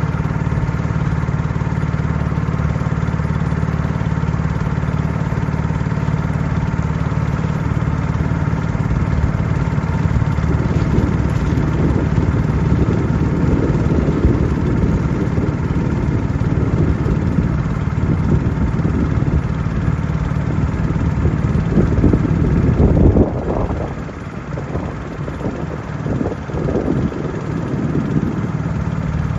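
Motorboat engine running steadily, heard from on board the boat; about three-quarters of the way through the sound briefly drops and changes before steadying again.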